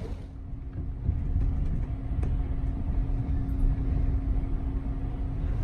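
Low rumble of a passenger train rolling slowly, heard from inside the carriage, with a steady low hum over it and a few faint ticks.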